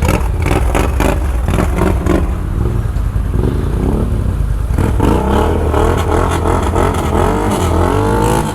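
ATV engine revving up and down under load, with rapid clattering knocks during the first couple of seconds.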